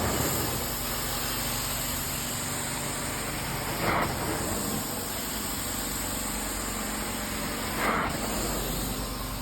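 Carpet-cleaning extraction machine running with a steady hiss, broken by three short surges about four seconds apart.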